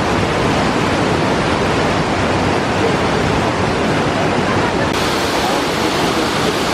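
Steady, loud rushing noise. The high end of the noise changes abruptly about five seconds in.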